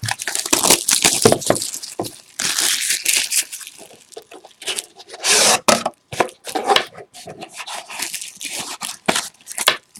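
Plastic wrapping of a trading-card box being torn open, then the wrapping and packaging crinkling and rustling in the hands, with irregular crackles and small clicks.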